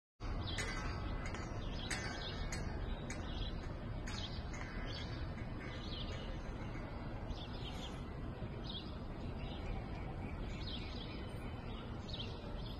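Birds chirping repeatedly, short calls every second or so, over a steady low outdoor rumble.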